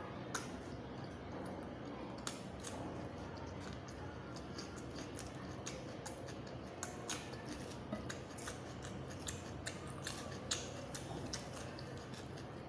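Close-miked eating sounds: a run of irregular, crisp clicks and crunches, as of chewing or biting crunchy food.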